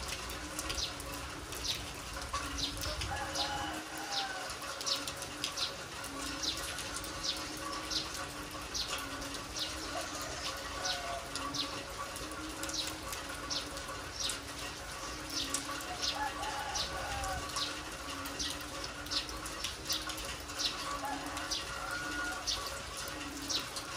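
Heavy rain falling steadily on a yard, with close water drips and splashes making sharp, irregular taps. A dove coos over and over in the background, with a few other bird chirps.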